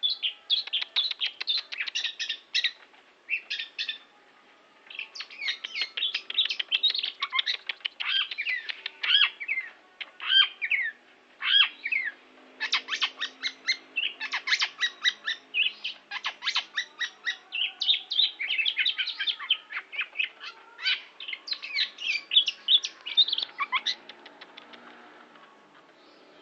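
Long-tailed shrike (pentet) singing: a fast run of short, high notes delivered in bursty phrases, with a brief pause about four seconds in, and thinning out near the end.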